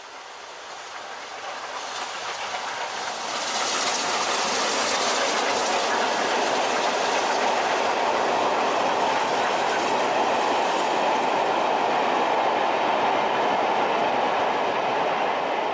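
Steam-hauled train passing on the line. It grows louder over the first few seconds, then the coaches' wheels clatter over the rail joints in a steady loud rush.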